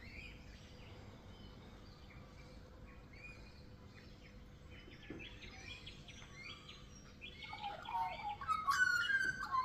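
Australian magpie singing: soft scattered notes at first, then from about seven seconds in a louder warbling run of varied, gliding notes.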